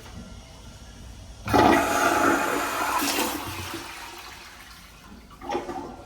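Toilet flushing: a sudden loud rush of water starts about a second and a half in and tapers off over a few seconds, with a short surge of sound near the end.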